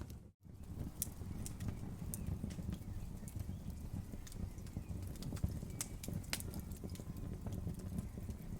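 Wood fire crackling: scattered sharp pops and snaps over a steady low rumble of burning. The sound cuts out for a moment about a third of a second in, then carries on.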